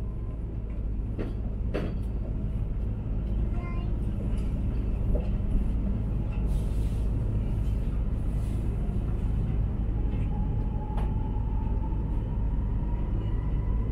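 Steady low rumble of an H5-series Shinkansen heard from inside the car as the train moves through a station, with a few light clicks. A faint whine comes in about ten seconds in and slowly rises in pitch.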